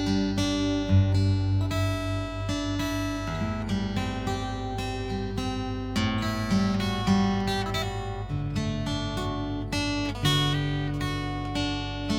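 Fingerstyle acoustic guitar played solo, with plucked bass notes under a picked melody.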